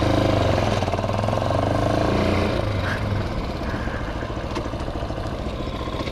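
Hawk 250 motorcycle engine running at low speed, its pitch rising a little and settling back within the first couple of seconds, then running steadily.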